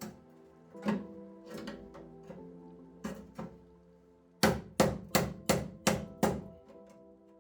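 Background music with a series of sharp hammer blows, most likely on the car's sill sheet metal. A few scattered strikes come first, then a quick run of about six, roughly three a second, a little past halfway through.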